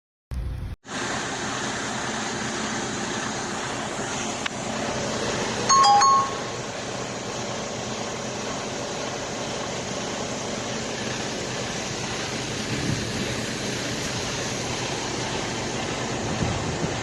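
Steady rushing noise, with a short electronic two-note chime about six seconds in, a higher note falling to a lower one.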